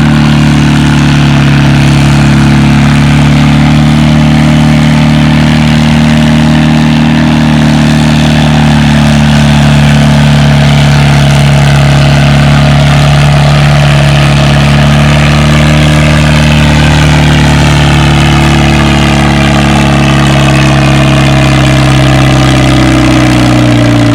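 Farmall 350 tractor engine working hard under load, pulling a weight-transfer sled at a steady pitch. In the last couple of seconds the pitch falls as the engine lugs down and the pull comes to a stop.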